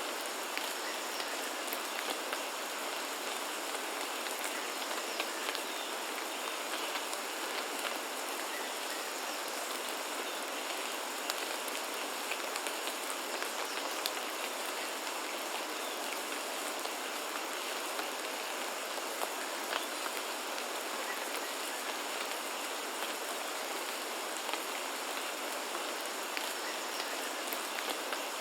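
Steady rain falling, an even hiss with many separate drops ticking sharply throughout.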